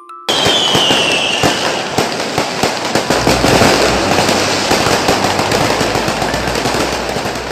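Firecrackers going off in a long run of rapid, dense crackling pops. It starts abruptly, with a short falling whistle at the start, and carries on for about seven seconds.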